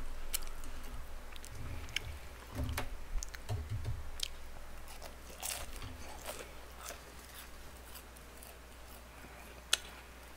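A person chewing and biting boneless fried chicken close to the microphone, with scattered small clicks and one sharp click near the end.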